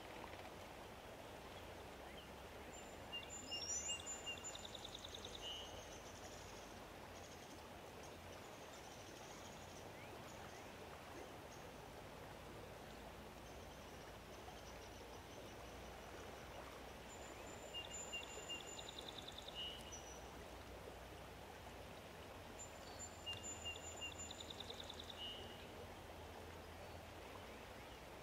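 A songbird sings the same short song three times, several seconds apart. Each song is a few high, thin whistled notes and a quick trill, about two and a half seconds long, over a faint, steady outdoor hiss.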